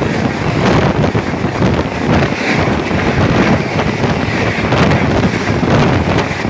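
Loud rush of wind and rail noise at an open train window as an express train passes at speed on the adjacent track, with wind buffeting the microphone.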